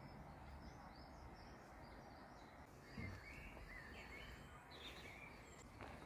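Faint birds chirping, a few short high calls in the middle, over a low steady rumble of outdoor ambience.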